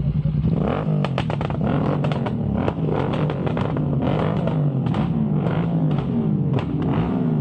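Motorcycle engine running under way, its revs rising and falling again and again, with frequent short clicks and knocks.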